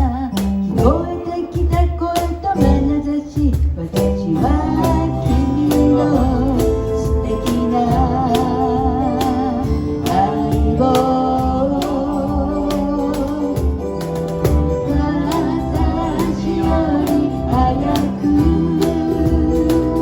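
Live band music with a steady beat: a song with singing over guitar and drums.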